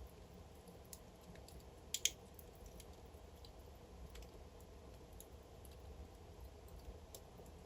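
Wood fire crackling softly over a low steady rumble of the flames, with scattered small snaps and two sharper pops close together about two seconds in.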